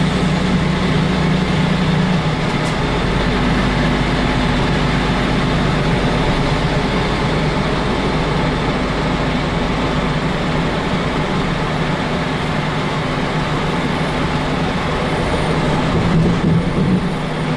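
Heavy truck's diesel engine running under way with steady tyre and road noise, heard from inside the cab.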